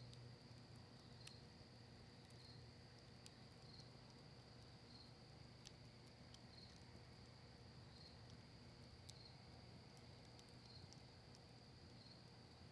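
Faint crackling of a cedar-leaf and maple-wood campfire, a few sharp pops scattered through it, over a steady high-pitched whine that pulses about once a second.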